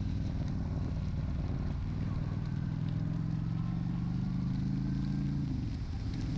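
Honda Shadow 750's V-twin engine running under way at steady revs, with a rush of wind and rain noise over it. The engine note drops briefly near the end, then picks back up.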